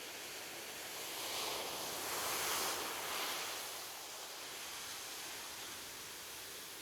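Ocean surf on a beach: a steady wash of waves, with one wave building about a second in, peaking near the middle and then easing back.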